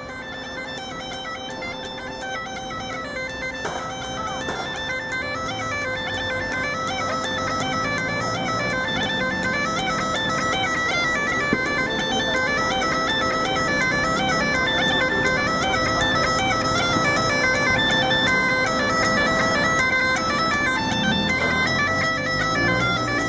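Background music: a bagpipe tune played over a steady drone, growing gradually louder.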